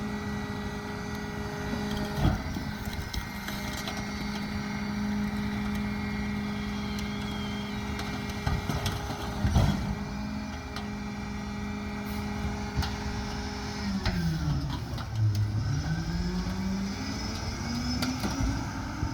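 Mack Granite garbage truck's diesel engine running at a steady speed, with a few sharp knocks. About 14 seconds in, the engine pitch drops to a low idle and then climbs again as it revs up.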